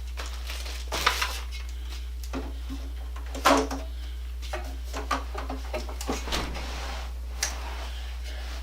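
Scattered knocks, clicks and clatters from handling exercise-bike parts during assembly. The loudest knock comes about three and a half seconds in, and a few more follow later. A steady low hum runs underneath.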